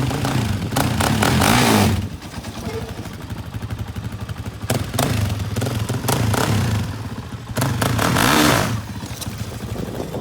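400cc sport ATV engine running in first gear, revved hard twice, about a second in and again near eight seconds, as the clutch is popped to lift the front wheels.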